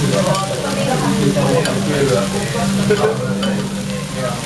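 Monjayaki batter sizzling on a hot iron griddle while metal spatulas scrape and stir it as it thickens, with a steady low hum underneath.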